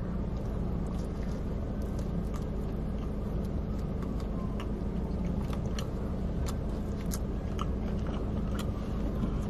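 Close-miked chewing of a mouthful of fried chicken sandwich, with many small, scattered wet mouth clicks, over a steady low hum inside a car cabin.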